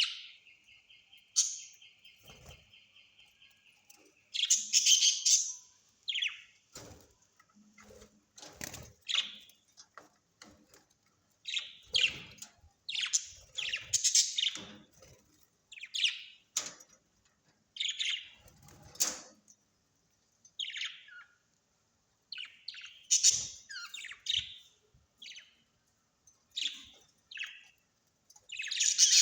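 Birds chirping and calling in a run of short, high-pitched calls, roughly one every second. A buzzy, rapidly pulsing trill sounds in the first few seconds. The loudest bursts come about five seconds in and at the very end.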